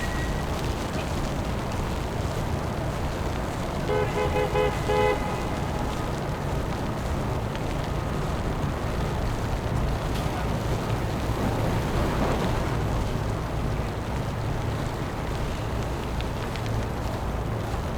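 Steady low rumble of city street traffic, with a vehicle horn tooted in a quick run of short beeps about four seconds in.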